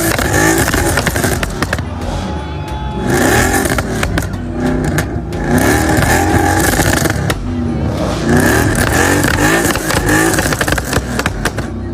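Ford Mustang GT V8 engine revving again and again, its pitch rising and falling with each blip of the throttle.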